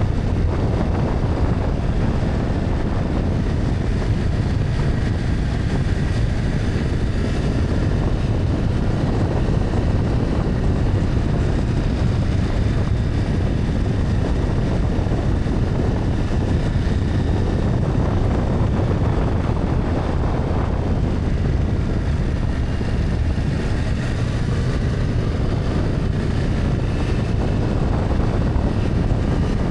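BMW F800GS parallel-twin engine running at a steady road speed, mixed with wind buffeting the microphone.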